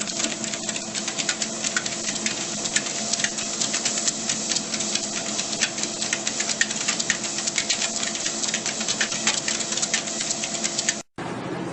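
A small motor running steadily with many rapid, irregular clicks over it. It cuts off suddenly near the end, giving way to a steadier noise without clicks.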